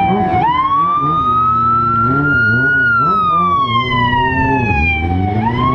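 Emergency vehicle siren on a slow wail: the pitch climbs, then sinks, in cycles of about five seconds, rising again near the start and near the end.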